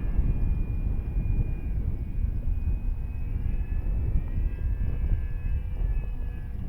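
Wind buffeting the microphone in a heavy low rumble, with the thin, steady whine of an FMS Ranger 1800 RC plane's electric motor and propeller in flight, drifting slightly in pitch.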